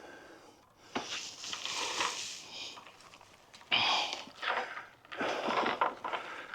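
A man breathing out heavily in several separate, noisy exhales, one after another.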